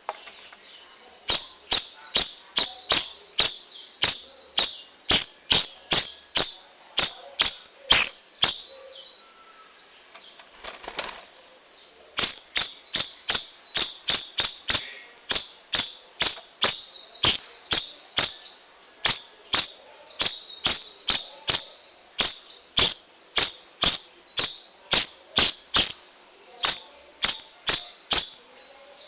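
Cucak rawis bird singing a rolling series of sharp, high chipping notes, about two to three a second, with a pause of a few seconds in the middle.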